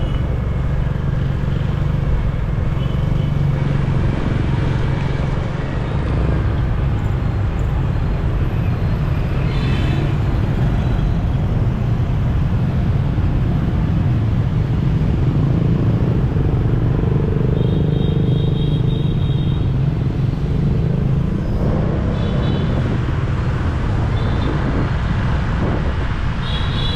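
Riding on a motorbike through busy city traffic: a steady low rumble of the engine and road, with several short high-pitched beeps, like horns, in the second half.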